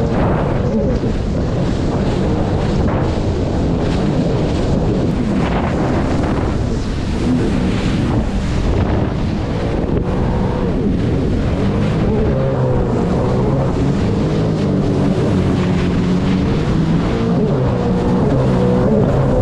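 Sea-Doo personal watercraft running at speed over waves, its engine pitch rising and falling with the throttle, with hull slap and spray and wind buffeting the microphone.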